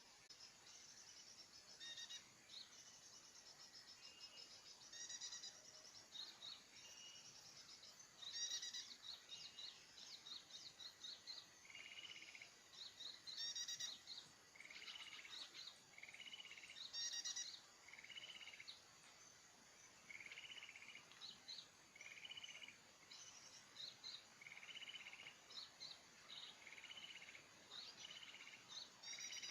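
Small songbirds calling: many short chirps and quick trilled notes repeat over and over, with a lower, buzzy chirp coming about every second or two in the second half.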